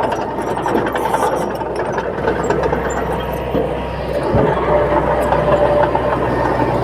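Diesel engine of a crawler bulldozer running steadily.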